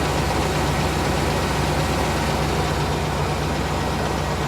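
1998 GMC Savana's 5.7-litre V8 idling steadily while still warming up after a cold start, with a faint tick from the engine that the owner thinks may be a hydraulic lifter.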